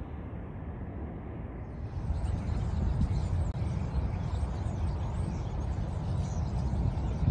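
Small birds chirping faintly in bare trees over a steady low rumble. The rumble gets louder about two seconds in, and the high chirps run on above it.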